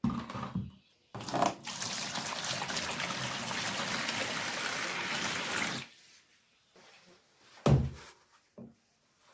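Water running steadily, as from a tap, for about four and a half seconds, then cutting off. About a second and a half after it stops there is one loud knock and then a smaller one.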